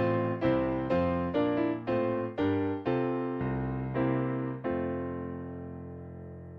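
Piano playing a slow series of chords, a new chord struck about every half second, then a long held chord that slowly fades away toward the end.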